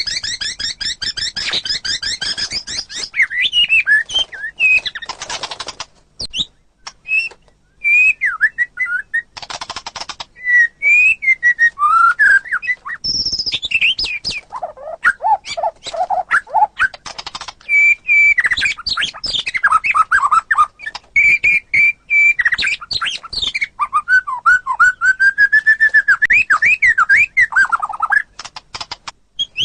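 White-rumped shama (murai batu) singing a long, varied song: rapid trills, clear whistled phrases that slide up and down, a few harsh rasping notes, and a run of low fluty whistles about halfway through.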